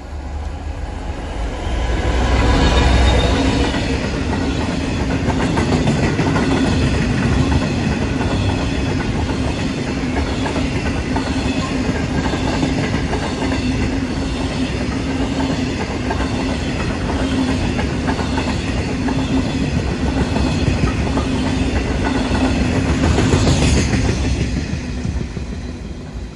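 Class 66 diesel freight locomotive passing at speed, loudest about three seconds in, followed by a long train of loaded hopper wagons rumbling and clacking over the rail joints with a steady hum. The sound swells briefly near the end as the last wagons pass, then fades away.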